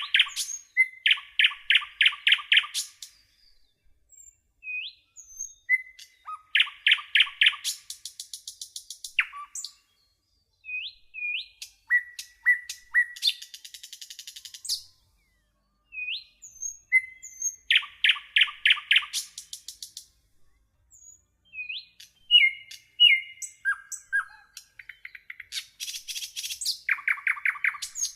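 A small songbird singing in repeated bouts: fast rattling trills of chips, short rising whistled notes and high buzzy hissing phrases, with brief pauses between bouts.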